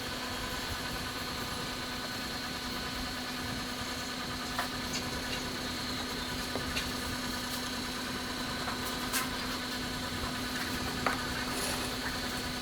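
Steady motor hum holding one pitch, with a few light knocks scattered through it.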